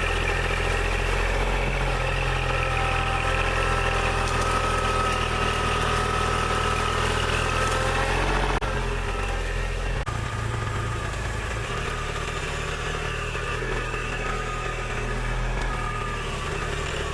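Kubota L2501 tractor's three-cylinder diesel engine running steadily. About halfway through, the engine note changes and the sound drops slightly in level.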